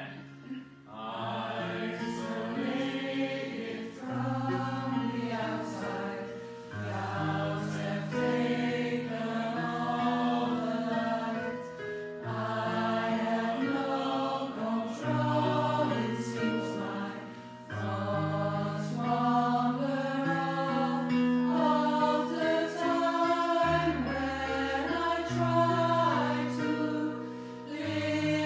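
Pop choir singing in several parts, holding sustained chords that change every second or two.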